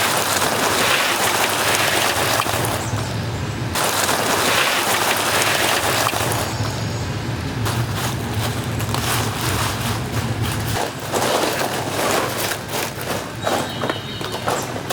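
Dumplings deep-frying in a cauldron of hot oil: a dense steady sizzle, turning to sharper crackling and popping from about halfway on. A low hum runs under it and stops about two-thirds of the way through.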